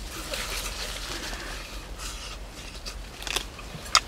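Chewing and lip-smacking of a man eating grilled pork, with two sharp clicks near the end.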